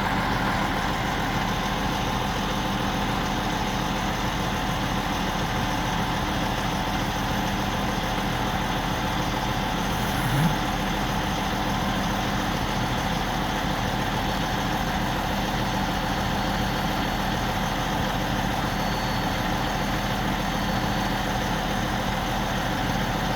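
Large mobile crane's diesel engine running at a steady idle, with a brief rising squeak about ten seconds in.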